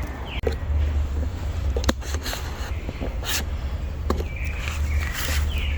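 A bird chirps in short gliding notes just after the start and again near the end, over a steady low rumble. A few sharp clicks and rustles come in between, from the branch and wire being handled.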